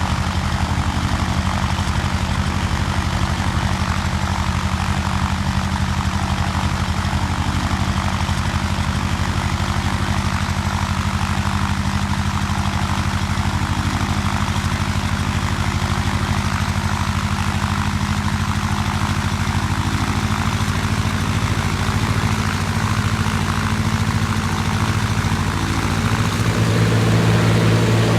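An engine running steadily. About 26 seconds in, its note changes and it gets a little louder.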